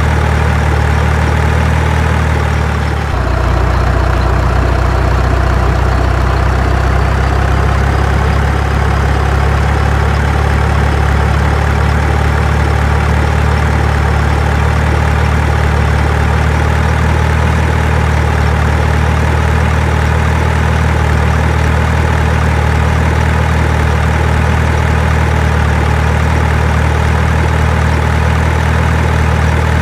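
Heavy vehicle engine idling steadily, with a brief dip and shift in engine note about three seconds in.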